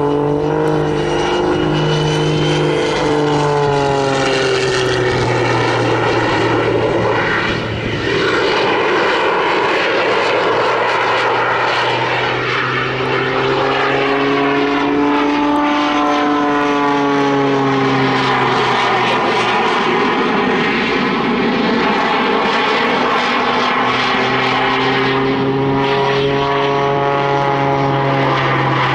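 Jet Pitts aerobatic biplane, a Pitts with two added jet engines, flying its display. Its engine note falls and rises in pitch several times as it swoops past, over a steady rushing roar.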